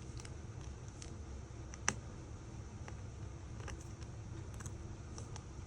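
Faint steady room hum with a few light ticks and one sharp click about two seconds in, the small clicks of tools and parts being handled during phone disassembly.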